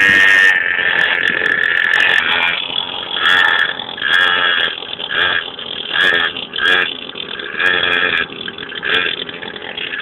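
Mini motorbike's small engine buzzing at high revs, held steady at first, then surging and dropping in quick repeats from about three seconds in as the throttle is worked.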